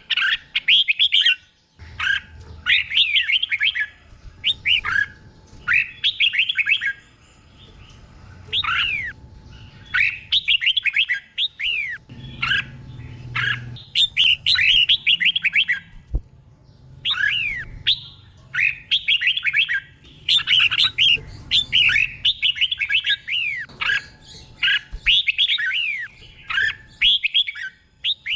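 Red-whiskered bulbul singing short, rapid phrases of gliding whistled notes, one burst every second or two with brief pauses between. It sings its phrases doubled, in pairs: the 'เบิ้ล' song prized in trained caged bulbuls.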